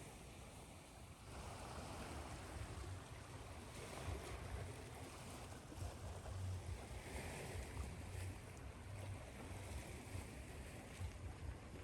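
Ocean waves washing onto a shore, mixed with steady white noise, swelling and easing every few seconds over a low rumble.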